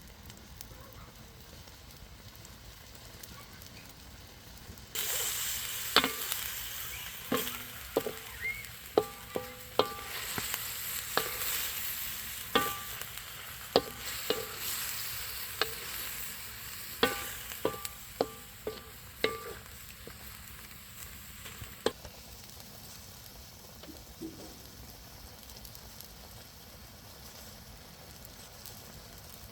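Food sizzling in hot oil in a metal pot, starting suddenly about five seconds in. A metal spoon clinks against the pot again and again as it is stirred, and the sizzle eases off about two-thirds of the way through.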